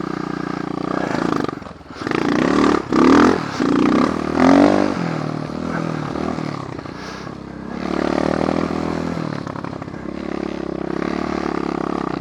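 Apollo dirt bike engine running, revved hard in several quick bursts between about two and five seconds in, then running more steadily with a smaller rise in revs near the middle.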